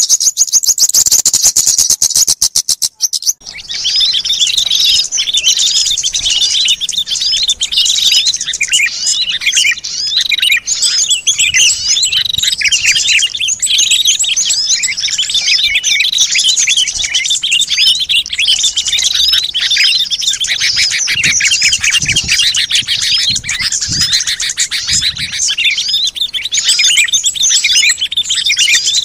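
A dense chorus of many small birds chirping and twittering at once, high-pitched and unbroken. It opens with a rapid rattling trill that cuts off about three seconds in, before the chorus starts. This is a lure recording meant to draw wild small birds in.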